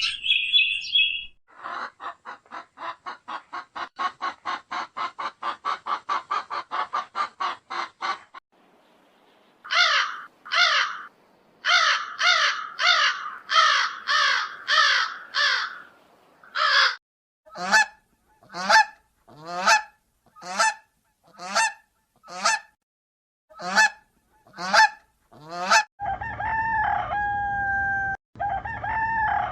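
A series of farm bird calls: a fast run of short calls, then loud goose honks repeated about once a second, then a string of single falling calls. Near the end a rooster begins a long crow.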